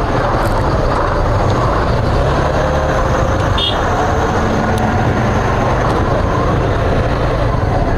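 Steady rumble of vehicle engines, with a short high-pitched tone about three and a half seconds in.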